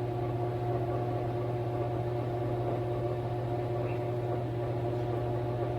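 Conair SD6RN 1875 W hair dryer running steadily: a constant motor hum with a rush of air, holding the same level without ramping or cutting off.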